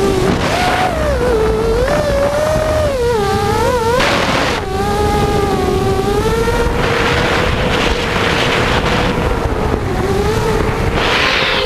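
FPV quadcopter's electric motors whining, the pitch rising and falling with the throttle, with several bursts of rushing wind noise.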